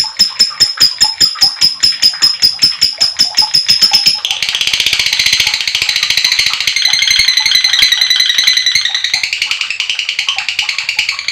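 Lovebird calling: a rapid run of sharp repeated chirps, about five a second, then about four seconds in breaking into a long, continuous high-pitched chattering trill, the 'ngekek panjang' long chatter.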